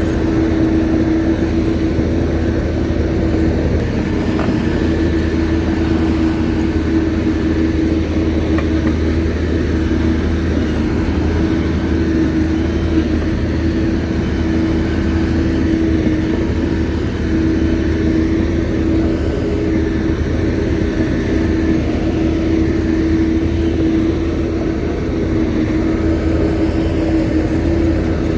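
Shantui bulldozer's diesel engine running steadily, a continuous drone with a steady higher hum over it.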